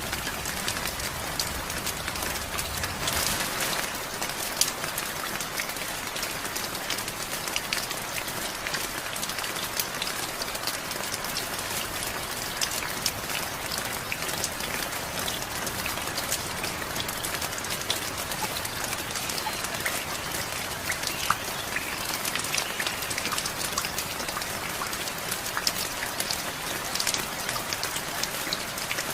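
Heavy rain falling steadily, a dense hiss with scattered sharper drop clicks.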